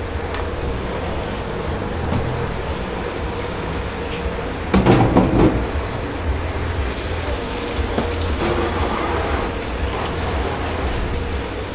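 Commercial kitchen dish-pit noise: a steady low machine hum throughout, a louder clatter about five seconds in, and a steady hiss, typical of running water, coming in a little past halfway.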